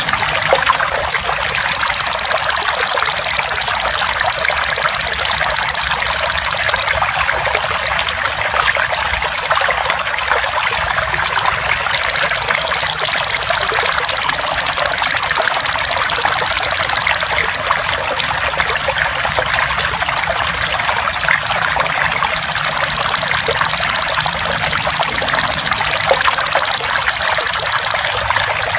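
Water trickling steadily, with the loud, high-pitched buzzing trill of a belalang emas (golden grasshopper) coming in three times, each lasting about five seconds, roughly ten seconds apart.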